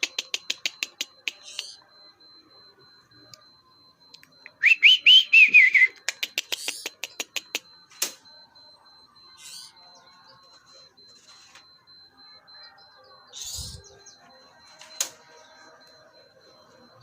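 Pied bushchat calling: fast runs of sharp ticking notes, with a loud burst of short rising-and-falling whistled notes about five seconds in. After that come only a few scattered faint chirps and a single low thump.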